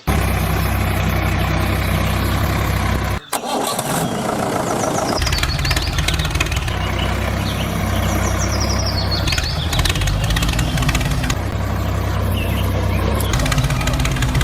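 Engine running steadily with a low, even idle, cutting out abruptly for a moment about three seconds in and then running again.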